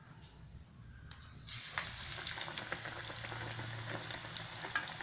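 Hot oil sizzling and crackling as battered bread bonda deep-fry. It starts suddenly about a second and a half in, after a quiet start.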